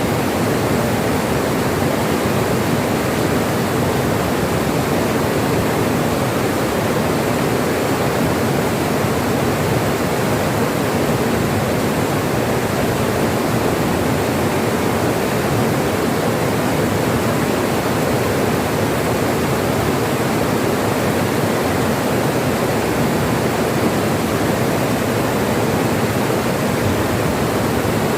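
River water rushing steadily over rocks, an even, unbroken rush with no change in level.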